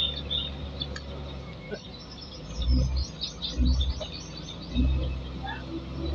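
A small bird singing a quick run of high chirps, about a dozen notes in just over a second, near the middle. Three dull low thumps, the loudest sounds, fall around it.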